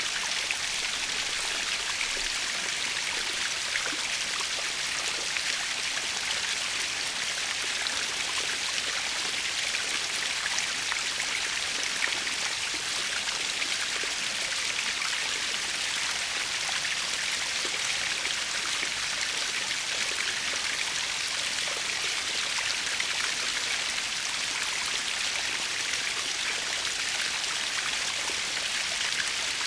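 Small natural waterfall splashing steadily, a constant hiss of falling water with many fine droplet splashes.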